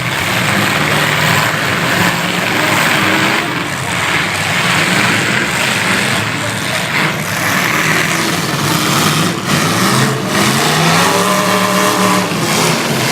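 Demolition derby truck engines revving loudly and unevenly, with a few sharp bangs about nine to ten seconds in.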